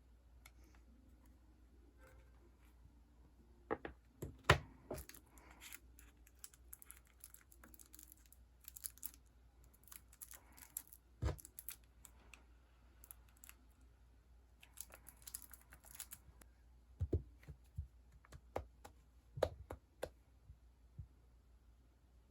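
Sticker sheets and their plastic and paper packaging being handled: scattered light taps and clicks with short rustles, the loudest taps about four seconds in and a cluster of them near the end.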